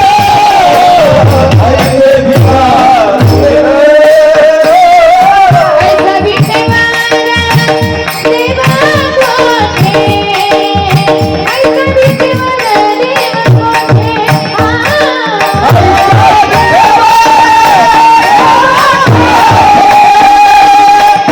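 Women singing a Marathi devotional song, a bhajan, in a melodic line over a rhythmic hand-drum accompaniment.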